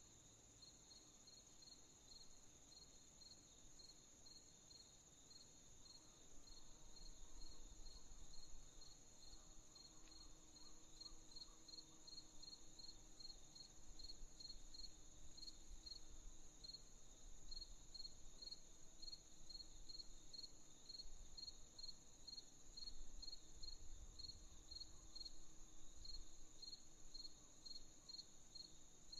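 Faint crickets chirping: one steady, unbroken high trill with regular separate chirps over it, about two a second. A faint low rumble sits underneath from about a quarter of the way in.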